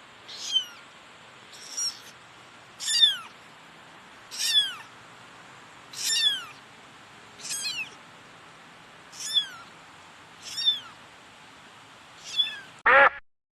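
Cat meowing over and over: short, high-pitched calls that fall in pitch, about one every second and a half. Near the end a louder, lower call follows.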